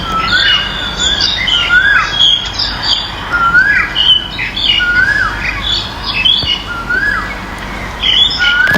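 Birds calling: a rising-and-falling whistled call repeated every second or so, over a busy mix of shorter, higher chirps.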